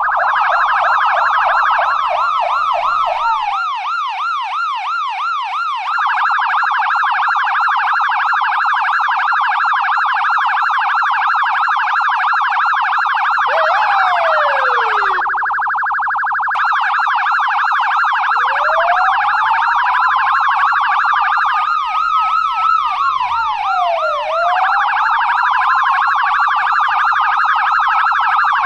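US police car electronic siren sounding loudly and changing pattern. It starts with a fast yelp, holds a long steady shrill stretch, gives a short sharp falling blip about halfway through, then moves into slow wails that rise and fall, with bursts of yelp between them.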